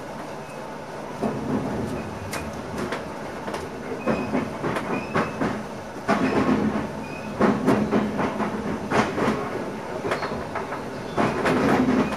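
Cab of an NS ICM (Koploper) electric multiple unit running on the track: a steady rumble with the wheels clattering in irregular sharp clicks and knocks, growing louder about six seconds in and again near the end.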